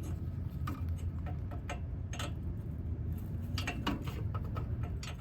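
Scattered light metallic clicks and taps from hand tools and fasteners being worked, a few each second at an uneven pace, over a steady low hum.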